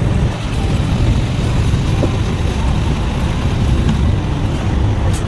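A truck's engine running steadily.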